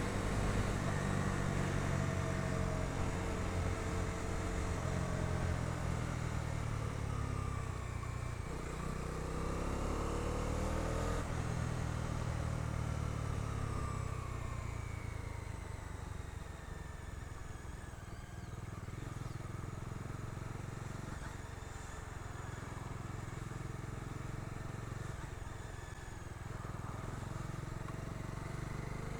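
Bajaj Dominar 250's single-cylinder engine running under way while it is ridden two-up, its pitch rising and falling several times as the bike speeds up and eases off.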